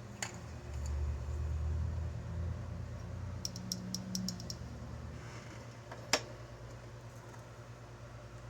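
Small handling clicks and taps over a low rumble: a quick run of light clicks a little before halfway, then one sharp click about six seconds in.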